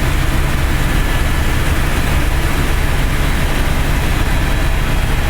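Helicopter in flight heard from inside the cabin: a loud, steady drone of rotor and engine with a heavy low hum.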